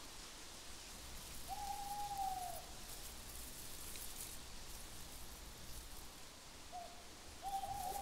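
Owl hooting: one long, smooth hoot about a second and a half in, then a short hoot and another long one near the end, over a faint steady hiss.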